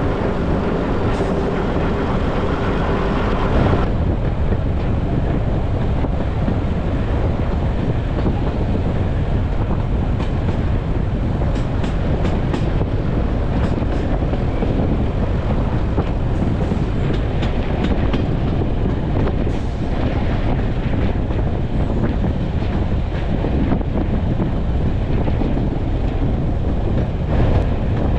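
Diesel-hauled heritage railway passenger coach running along the line, heard from the open window: a steady rumble of wheels on the rails with wind on the microphone. A humming tone in the first few seconds stops about four seconds in, and scattered clicks of the wheels over the track come through in the middle.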